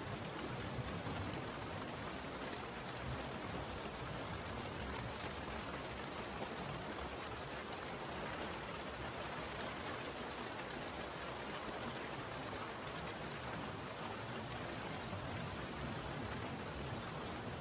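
Steady rainfall, an even hiss of rain with fine patter of drops on a surface.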